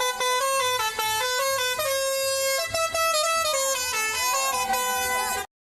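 Musical truck horn playing a tune: a run of pitched notes stepping up and down every fraction of a second, with a few wavering notes near the end, cutting off suddenly.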